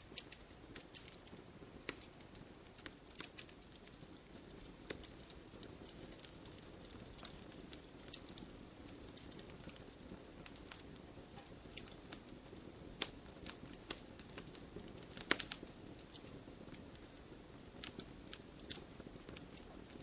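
Campfire wood crackling, with irregular sharp pops and snaps over a soft steady rush of the flames; a quick cluster of louder pops comes about fifteen seconds in.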